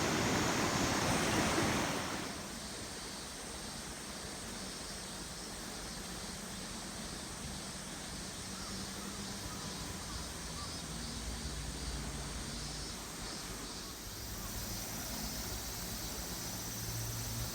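River water rushing over rocks: a loud rush for about the first two seconds, then a softer, steady flow.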